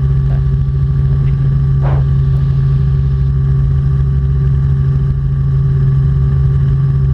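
Robinson R44 Clipper II helicopter in steady cruise: an unbroken drone of its engine and rotors, with a few fixed hum tones.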